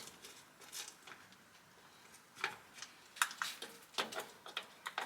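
Faint, irregular sharp clicks and clinks of hand tools being worked, starting about halfway through after a near-silent stretch.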